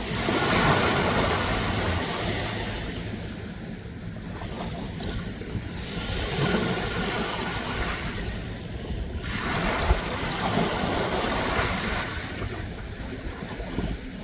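Sea waves surging and washing in repeated swells, with wind noise.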